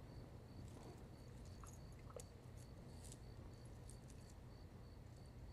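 Near silence: low steady room hum with a few faint clicks.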